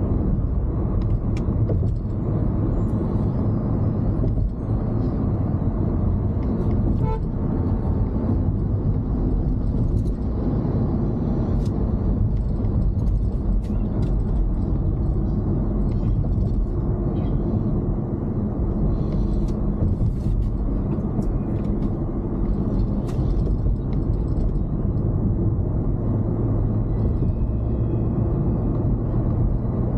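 Steady road and engine rumble inside a moving car's cabin, with an occasional faint tick.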